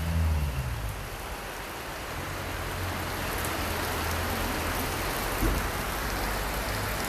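Heavy rain falling steadily. A vehicle's engine fades away in the first second, and there is one brief knock near the end.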